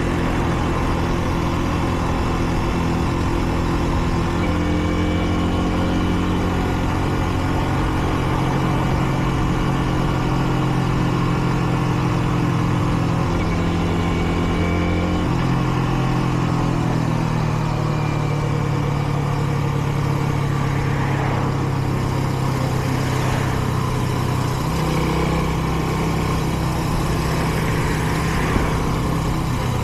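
Kreidler Dice CR 125 motorcycle's 125 cc single-cylinder four-stroke engine running under way. Its note steps up and down several times with changes of gear and throttle. The engine is still being run in, so it is held to moderate revs.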